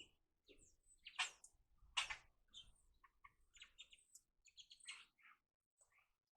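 A flock of small birds chirping: many short, high chirps at irregular intervals, some overlapping, faint overall.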